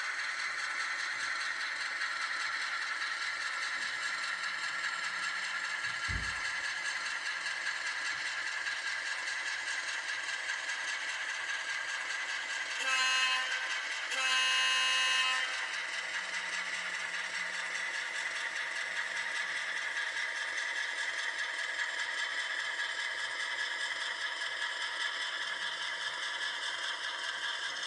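HO scale model train running on the track with a steady rattle, its locomotive horn sounding twice about halfway through: a short toot, then a longer blast.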